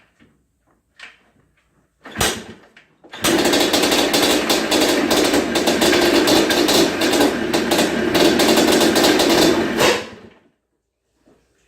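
Yamaha Blaster's two-stroke single-cylinder engine catches about three seconds in after a short knock, runs raggedly with rapid popping for about seven seconds, then dies away. The engine has not been started in months and was flooded.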